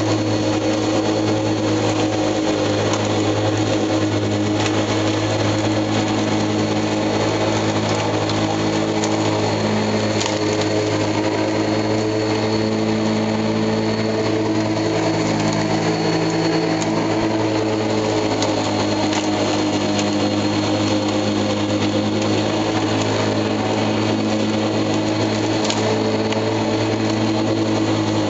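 Lawn mower running steadily at an even speed.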